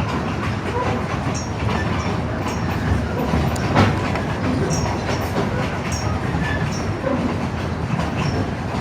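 Railroad passenger car rolling along behind a steam locomotive: a steady rumble of wheels on the track with irregular clicks and rattles, and one sharper knock about four seconds in.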